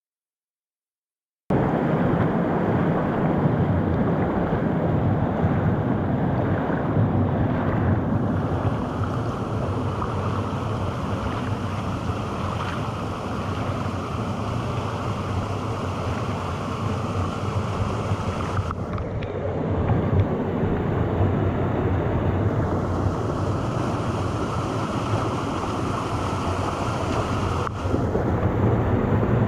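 Mountain stream water rushing over rocks, a steady loud rush that begins after a brief silence.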